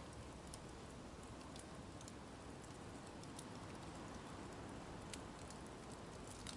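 Wood campfire burning: scattered, irregular sharp crackles and pops from the burning wood over a faint, steady hiss of flame.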